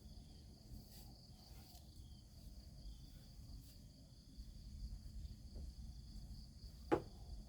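Steady high-pitched chirring of crickets, over a low rumble, with a single sharp knock near the end.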